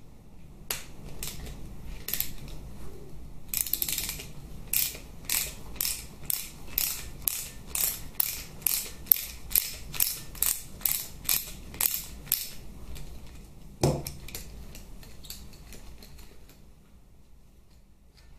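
Socket ratchet wrench worked back and forth on a fastener, clicking in short, even bursts about two or three times a second for some nine seconds, then a single knock.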